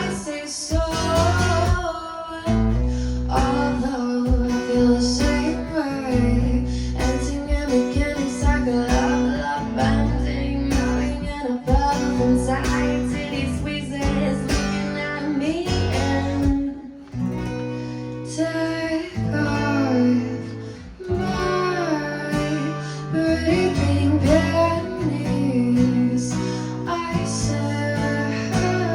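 Live roots/pop band music: guitar played over sustained low notes, with a steady beat of drum hits.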